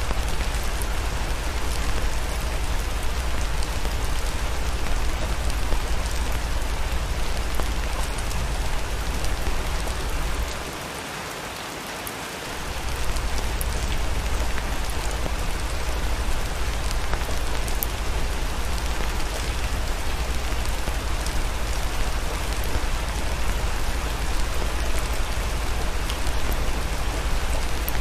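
Steady rain, an even hiss with faint scattered drop clicks, over a low rumble. The rumble drops out for about two seconds near the middle, then comes back.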